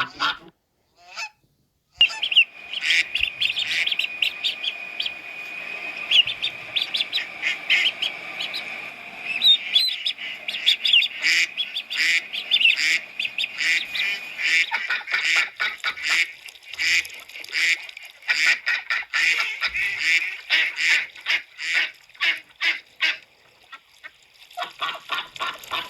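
A flock of domestic geese and ducks honking and calling over one another in a dense, continuous run of short calls, starting about two seconds in after a brief near-silent gap.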